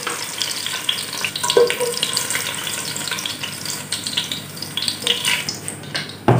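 Whole shallots sizzling in hot oil in a stainless steel saucepan, with a slotted spatula scooping through the pan to lift them out. There is a sharp knock at the very end.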